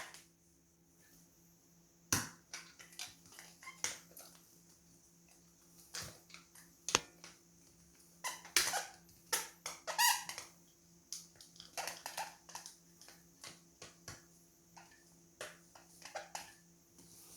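Handling and prying at the plastic housing of an automatic soap dispenser: irregular clicks, taps and short plastic squeaks, denser in the middle, over a faint steady hum.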